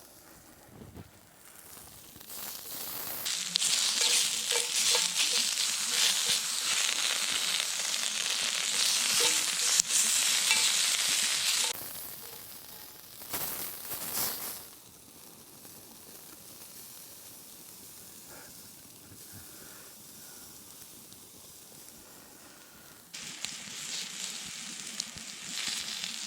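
Food sizzling as it fries over a campfire. The sizzle comes in about three seconds in and holds loud for some eight seconds before cutting off. It returns in a short burst, then again near the end.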